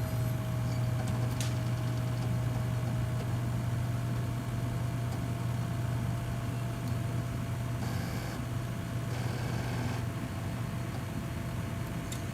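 Seagate Exos X22 22TB enterprise hard drive spinning in a running PC: a steady low hum with a thin steady whine above it, really quiet for such a drive, with a faint click once.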